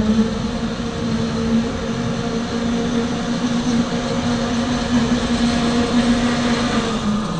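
36-volt battery-electric platform truck running, a steady electric hum over a rumble that drops away near the end.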